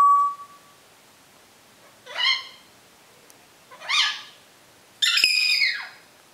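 African grey parrot calling: a brief whistle at the start, two short rising calls about two seconds apart, then a longer falling call near the end.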